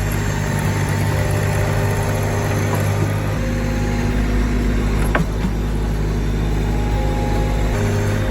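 Tractor engine running steadily, with a sharp knock about five seconds in.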